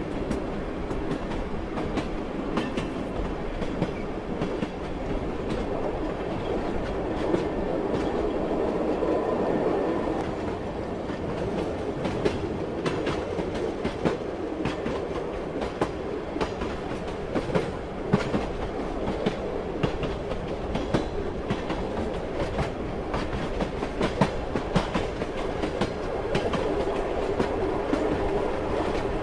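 A running passenger train: a steady rumble with many sharp clicks as the wheels roll over rail joints, the soothing clickety-clack of train wheels.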